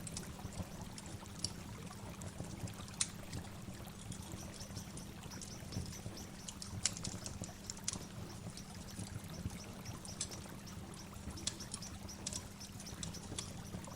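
Waterfall ambience: a steady low rush of falling water, with short high ticks scattered through it.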